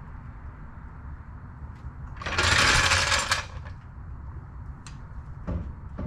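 A power tool runs in one short burst of a little over a second, about two seconds in, over a low steady background.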